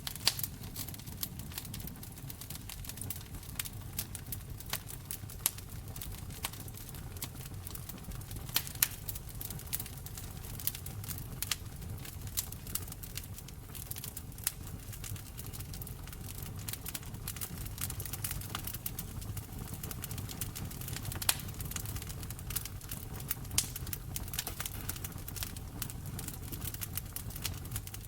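Wood fire crackling in a fireplace: irregular sharp pops and snaps over a low steady rumble, with a few louder pops scattered through.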